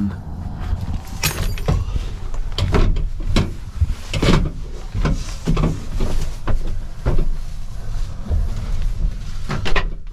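A string of irregular knocks, clunks and scrapes as someone climbs into the back of a pickup truck to bed down. A steady low rumble runs underneath.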